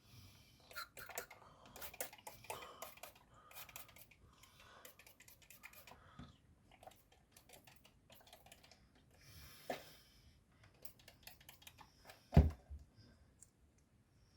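Small pump parts being handled and cleaned with isopropyl alcohol: scattered light clicks and brief rubbing and scrubbing noises, with one louder knock a little after twelve seconds in.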